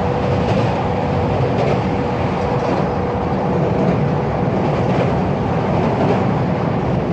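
Train running on the rails: a steady rumble with a thin, steady whine over it and faint regular clicks.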